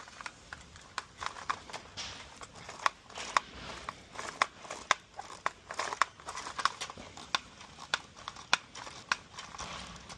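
Hard plastic parts of a Hayward PoolVac Ultra pool cleaner clicking and knocking irregularly, with short scrapes, as they are handled and pressed together during reassembly of its A-frame and bearing pods.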